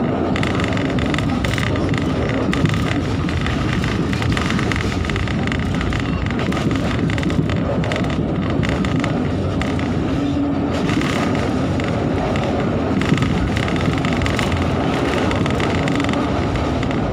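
Steady running noise of a moving passenger train heard from inside the carriage, wheels rumbling on the rails, with a couple of small knocks.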